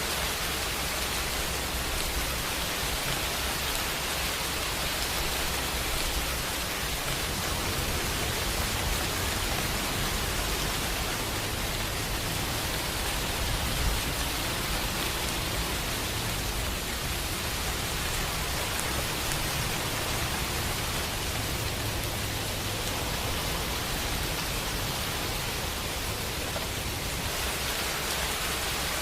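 Steady rain falling, a dense even hiss of drops, with a faint low rumble underneath that comes and goes.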